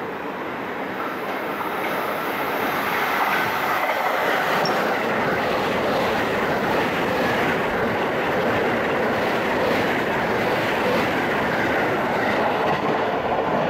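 A JR West 681 series and 683 series electric express train, two sets coupled, passing close by a station platform. The steady rolling noise of its wheels on the rails grows louder over the first couple of seconds as the train comes alongside, then holds.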